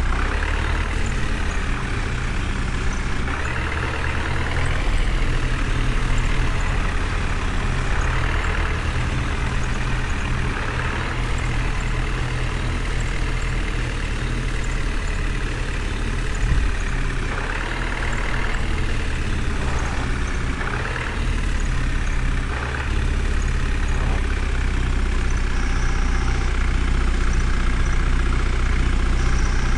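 Heavy vehicle engine running steadily with a deep hum, rising a little in level now and then.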